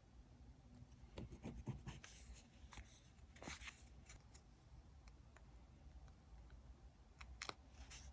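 Faint desk-crafting sounds from diary decorating: scattered small taps, clicks and short scrapes of paper and stationery being handled. The sounds come in a cluster about a second in, another around the middle, and a last pair near the end.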